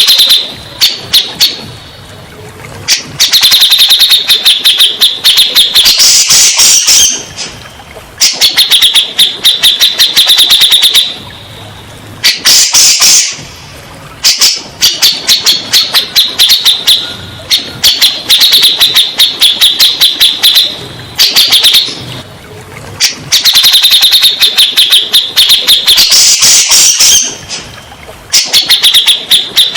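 Cucak jenggot (grey-cheeked bulbul) song: loud, fast chattering phrases of rapid repeated notes, each a few seconds long, broken by short pauses about a second long.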